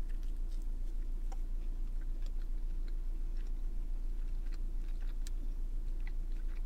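A person chewing a bite of a soft pancake breakfast sandwich with their mouth close to the microphone, making small wet mouth clicks now and then over a steady low hum.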